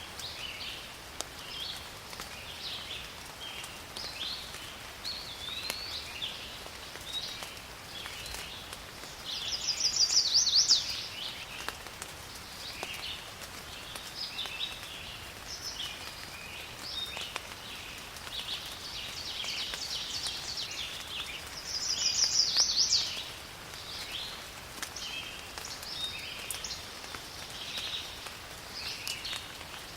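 Forest birds chirping and calling over light rain, with scattered drop ticks. Twice, about a third of the way in and again past two-thirds, a bird gives a loud, rapid trilling phrase lasting about a second or two.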